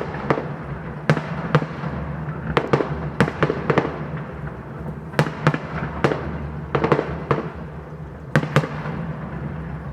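Fireworks bursting overhead: over a dozen sharp bangs at irregular intervals, some in quick pairs, over a steady low hum.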